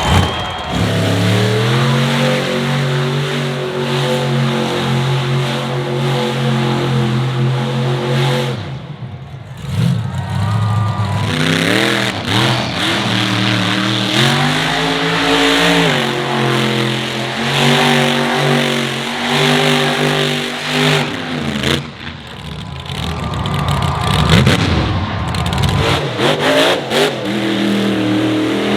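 Monster truck engine revving hard, its pitch climbing and falling repeatedly as the throttle is worked, easing off briefly twice before building again.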